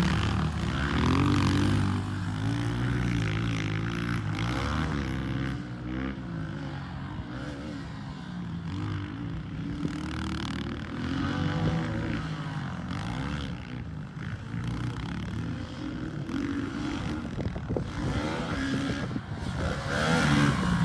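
Pit bike engine revving up and falling off again and again as it is ridden. It is louder at first, fades through the middle and comes back up near the end.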